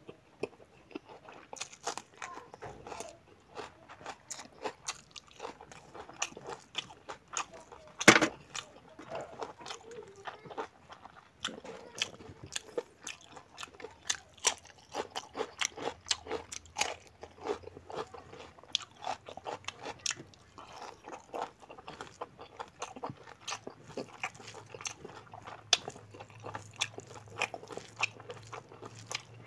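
Close-miked mukbang eating: a man chewing rice and pork curry eaten by hand, with many wet mouth clicks and smacks and crunchy bites of raw cucumber. One sharper, louder click about eight seconds in.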